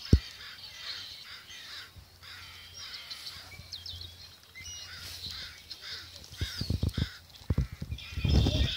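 Birds calling over and over in short, harsh calls, about two a second. Near the end, a run of low thumps comes in, louder than the calls.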